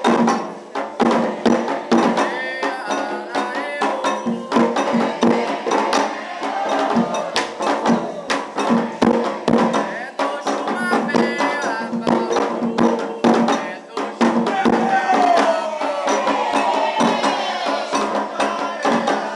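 Candomblé ritual music: rapid, continuous hand-drum strokes with light percussion, and voices singing over them.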